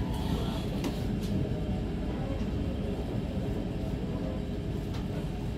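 Passenger train moving slowly, heard from inside the carriage: a steady low rumble with a few light clicks.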